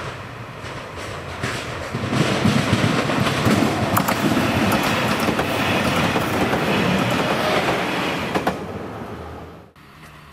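Diesel train running past on the line, its wheels clacking over the rail joints; the sound builds, holds loud for several seconds, fades, then cuts off abruptly near the end.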